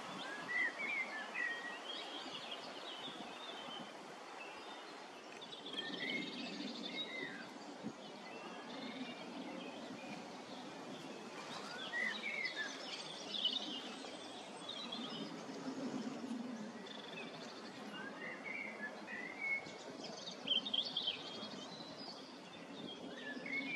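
Birds chirping in short, scattered phrases every few seconds over a steady outdoor background hiss.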